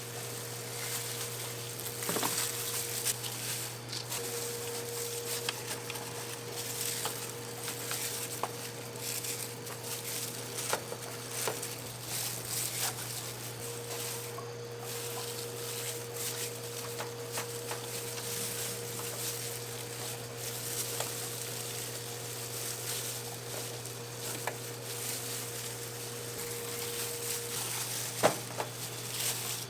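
Whole chickens roasting over an oak firewood fire: a steady crackle and sizzle with scattered sharp pops, over a constant low hum.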